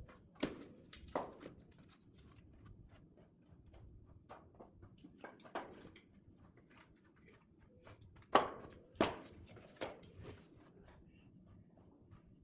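Split oak firewood logs knocking as they are set down onto a woodpile, about six sharp wooden knocks at uneven intervals, the loudest three close together near the end.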